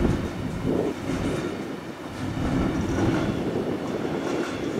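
Freight train of container flat wagons rolling past close by: a steady rumble of steel wheels on the rails, with clacks as the wheels run over the track.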